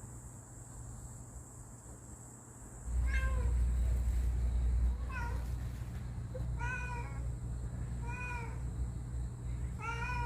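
Domestic cat meowing about five times, short calls each bending up and down in pitch, beginning about three seconds in. A low rumble starts at the same moment and runs under the calls.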